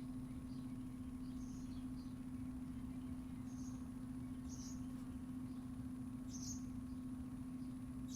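A small bird giving short, high chirps every second or two, over a steady low hum and rumble.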